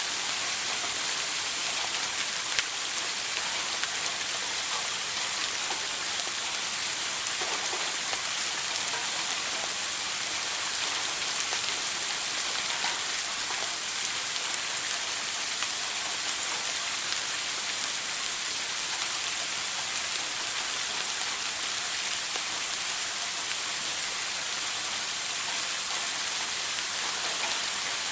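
A shower running steadily, water spraying and pattering on a hard surface, with faint scattered drip ticks.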